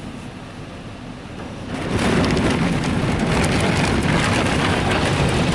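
Ryko Softgloss Maxx automatic car wash working over the truck, heard from inside the cab. A dull rumble jumps, about two seconds in, to a loud, steady, rain-like rush of water spray and wash brushes pounding on the body.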